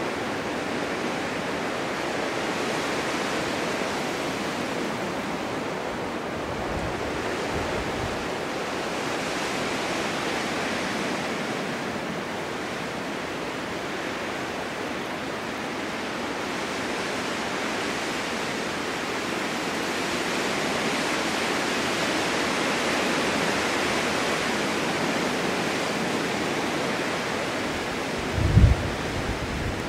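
Snowstorm wind blowing through a forest: a steady rushing that swells and eases every few seconds. Near the end a gust buffets the microphone with a few low rumbles.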